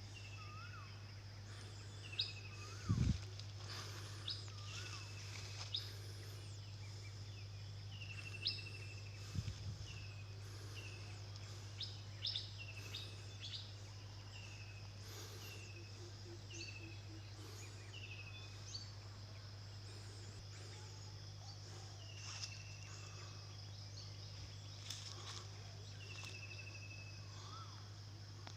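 Birds calling repeatedly outdoors: short falling whistles and quick rising chirps every second or two, over a steady high insect drone and a low steady hum. A couple of low thumps stand out, the loudest a few seconds in.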